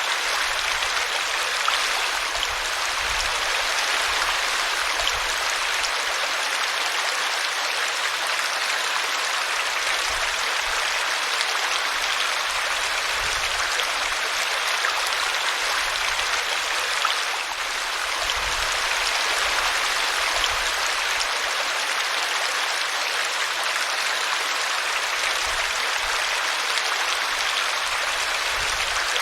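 Small brook babbling as it runs over a tree root: a steady rush of water, briefly a little softer a little past halfway.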